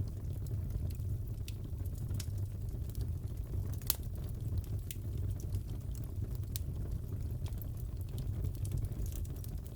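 Crackling wood fire in a fireplace: a steady low rumble with scattered sharp crackles and pops, one louder pop about four seconds in.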